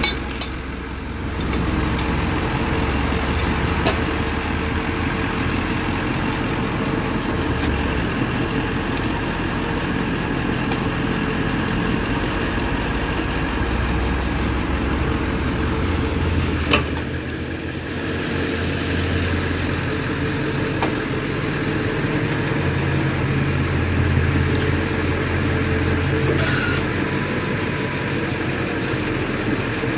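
Ford F-450 crane truck's engine running steadily, driving the hydraulic crane pump through the PTO while the crane lifts one side of a tractor. Its low drone shifts a few times as the load changes, and there is a sharp click about 17 seconds in.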